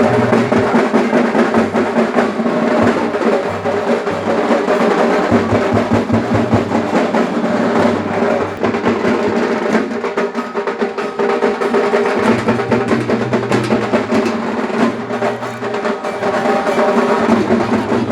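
Continuous rhythmic drumming with fast, dense strokes that keep on without a break.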